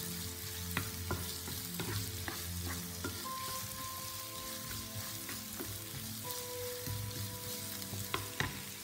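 Diced onions, crushed ginger-garlic and green chilli sizzling in hot oil in a frying pan, stirred with a wooden spatula that knocks and scrapes against the pan many times. The onions are sautéing.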